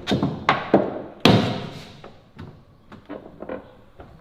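Supercar door being opened, giving a few sharp clunks and knocks, the loudest about a second in, then lighter taps. It is the loud noise the owner says the door now makes, shown as a fault.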